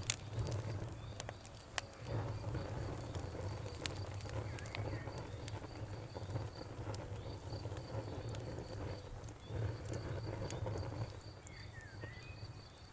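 Wood campfire crackling with scattered sharp pops over a steady low rumble of the burning fire, while crickets chirp in an even, rapid pulse. A short bird call sounds near the end.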